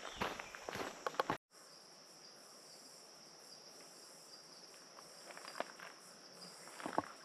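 A steady, high-pitched chorus of insects in tropical monsoon forest. Footsteps on the trail are heard for the first second or so, the sound cuts out briefly, and a few more steps come near the end.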